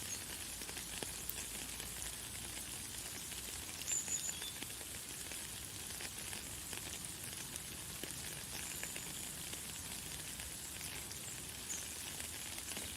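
Light, fine rain falling steadily, a dense patter of tiny drops. A few short high bird chirps sound over it, the clearest about four seconds in.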